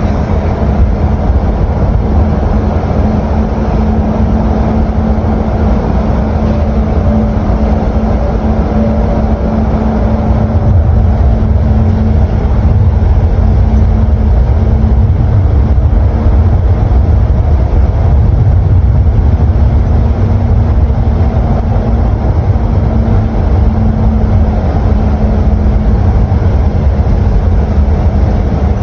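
A moving vehicle's steady, loud low rumble with a constant low hum.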